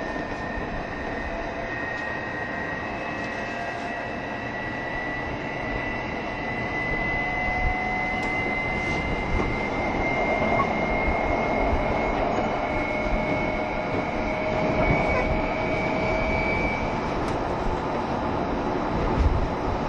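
JR Shikoku 7200 series electric train running, heard from inside the car: a motor whine rises slowly in pitch as the train gathers speed, over the rumble of wheels on rail, and the whine drops out about three seconds before the end.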